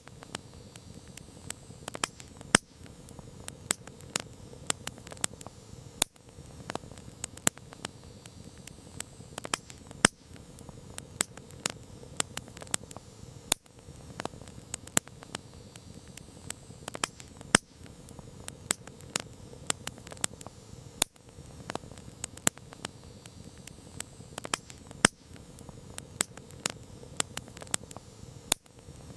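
Wood campfire crackling: irregular sharp pops and snaps, several a second and some much louder than the rest, over a faint steady hiss of the flames.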